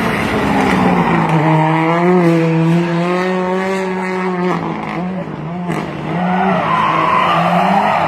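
Competition car engine held at high revs at a near-steady pitch, cutting off sharply about four and a half seconds in, then rising and falling repeatedly as the throttle is worked, over tyre noise.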